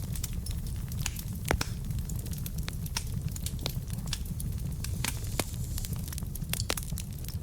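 Wood fire burning in a fireplace: logs crackling and popping in irregular sharp snaps over a steady low rumble, with one louder pop about one and a half seconds in.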